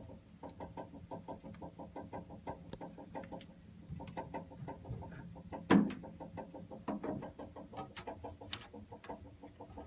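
Rapid, even ticking or clucking noise from a water heater, about seven ticks a second, with one sharper, louder click a little under six seconds in. The cause of the noise is unknown.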